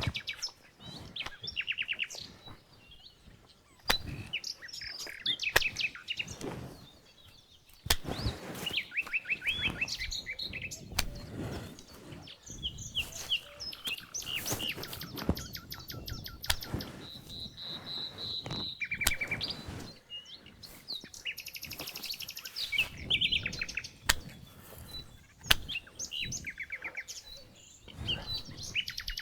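Songbirds chirping and trilling in quick, repeated phrases, with sharp knocks and rustling scattered among them.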